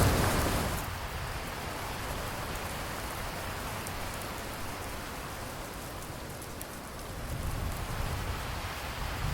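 Steady rain falling. A low thunder rumble dies away about a second in, and the rain then runs on evenly with a slight swell near the end.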